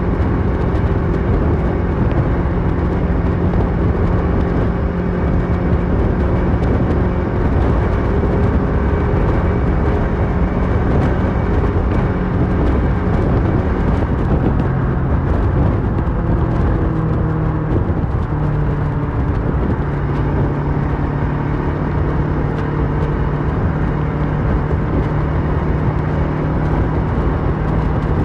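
Kawasaki Versys 650 parallel-twin engine running through a MIVV slip-on exhaust while riding, a steady note with its pitch dropping a little about two-thirds of the way through.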